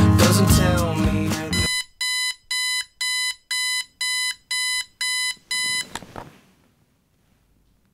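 Music cuts off and an alarm clock beeps, a high electronic beep repeating about twice a second for about four seconds before it stops. A faint soft noise follows, then silence.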